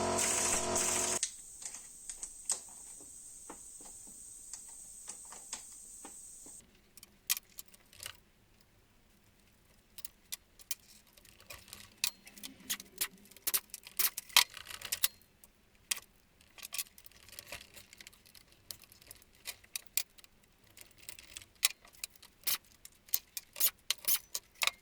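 Irregular sharp metallic clicks and clinks of hand tools and small metal parts being handled during engine disassembly, sparse at first and more frequent in the second half. A steady hiss runs under the first few seconds, then stops.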